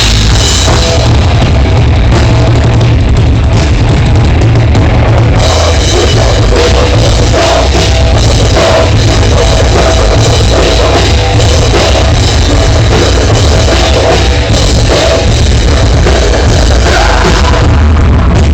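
Loud rock music played by a live band, with a drum kit and a heavy bass.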